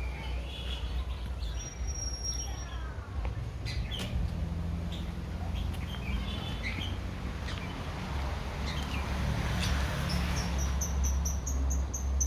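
Small birds chirping, with a quick run of repeated high chirps near the end, over a low steady hum and scattered light clicks.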